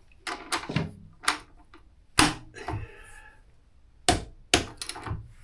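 Sharp metallic clicks and knocks, about eight spread over a few seconds, from a torque wrench and tools as a motorcycle's front axle is tightened to 50 Nm.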